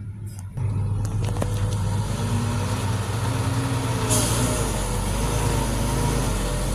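Heavy diesel construction-machine engine coming in loud about half a second in and running with a steady deep rumble. A sharp hiss of air joins it about four seconds in.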